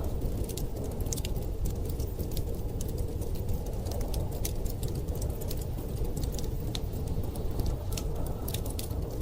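Wood fire crackling with frequent small, irregular pops and snaps, over a steady low rumble of storm wind.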